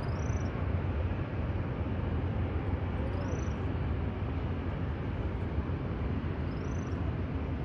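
Steady outdoor airport ambience, a low rumble with hiss over it. Three short high chirps, each rising then falling, come about three and a half seconds apart.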